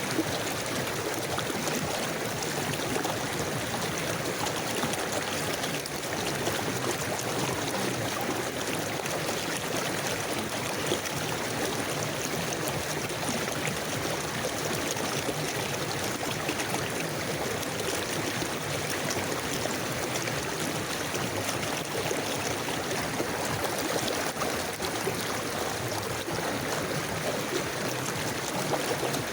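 Steady babble of a flowing forest river, water running and trickling over stones.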